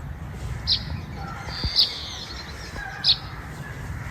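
A bird chirping: short, high calls repeated about once a second, three times, over a steady low rumble.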